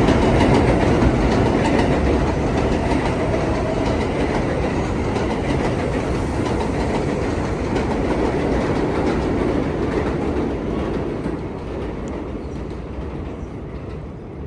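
New York City subway train running through the station, a loud steady rolling rumble that starts dying down over the last few seconds as it pulls away.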